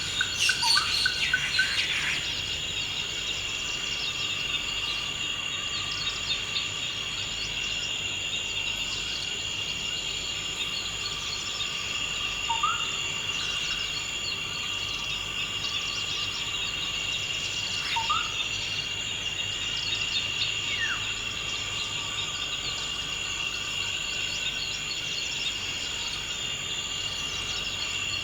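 Forest ambience: a steady, high insect chorus, like crickets, with a flurry of bird calls at the start and a few short rising bird chirps later on.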